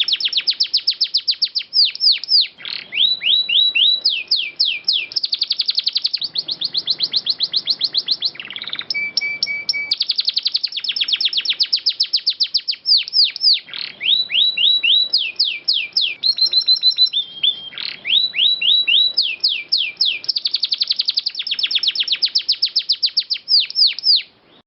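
Domestic canary singing long rolling trills: rapid series of downward-sweeping notes in phrases of changing speed, with a few short steady whistled notes between them. The song cuts off suddenly near the end.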